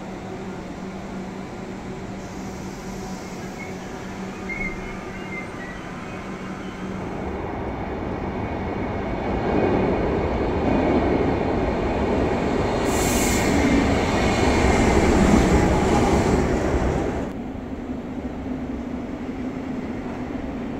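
Renfe passenger trains at a station platform: a steady hum of a standing train, then a rumble of an arriving train that builds over several seconds, with a brief high squeal about two-thirds of the way in. The rumble drops off suddenly to a steady low hum.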